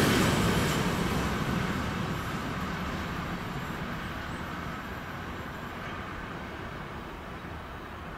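Intermodal freight train of pocket wagons carrying truck trailers rolling past on the rails and away; the rumble of its wheels fades steadily to a faint noise.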